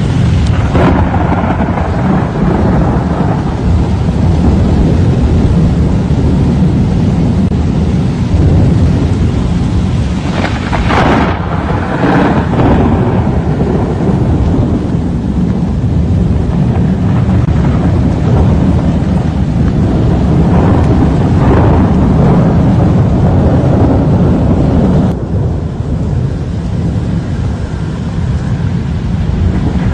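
Thunderstorm noise: strong wind and heavy rain with a loud, continuous low rumble.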